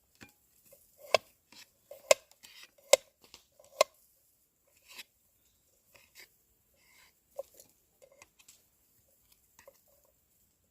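Meat cooking over a campfire, popping and crackling: four sharp loud pops about a second apart, then fainter scattered ones.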